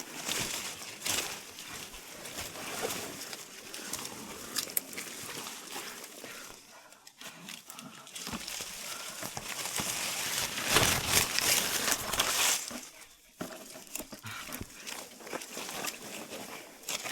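Leaves and branches rustling and scraping in irregular surges as a climber works down through dense foliage high in a tree. It is loudest for about two seconds a little past the middle.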